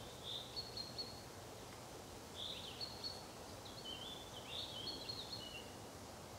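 Small songbirds singing faintly: short high chirps and brief level trills, several phrases spaced a second or two apart, over a soft steady background hiss.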